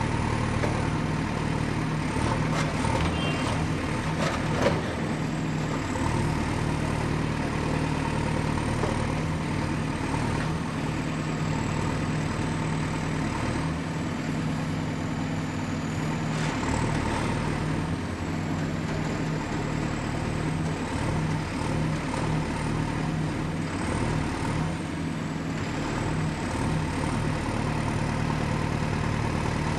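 Excavator's diesel engine running steadily under work, with a cluster of metallic knocks a few seconds in and one sharp clank near five seconds.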